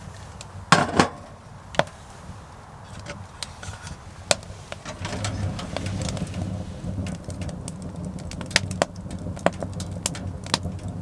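Beer being opened, a sharp double crack with a brief hiss about a second in, followed by scattered small clicks and knocks over a low steady rumble from about halfway.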